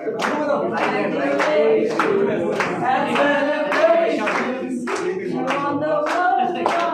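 A group of people singing together unaccompanied, clapping along at about two claps a second.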